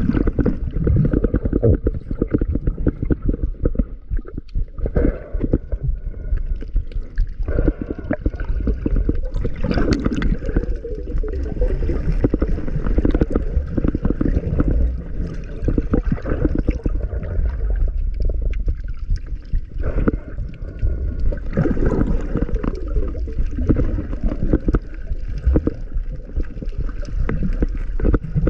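Muffled water sloshing and gurgling, heard through an underwater camera housing, with many irregular crackling clicks.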